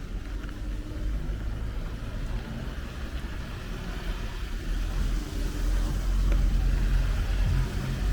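City street traffic in the rain: a motor vehicle's low engine rumble that grows louder over the last few seconds, over a steady hiss of wet road and rain.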